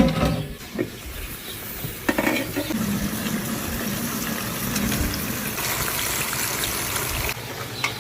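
Kitchen sounds of liquid: a steady rush of pouring or sizzling liquid starts about two seconds in and stops abruptly near the end, after a few light knocks.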